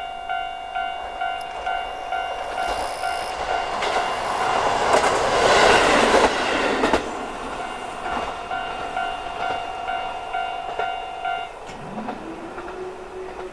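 Level-crossing warning bell ringing in a steady repeating pattern, a little over two strikes a second, while a diesel train passes; the train's rush swells to its loudest about five to six seconds in and then fades. The bell stops near the end, and a low tone rises and holds.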